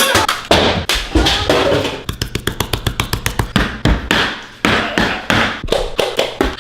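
A long series of sharp taps and knocks: a few spaced strikes at first, then a fast run of about eight or more taps a second, then slower, heavier blows near the end.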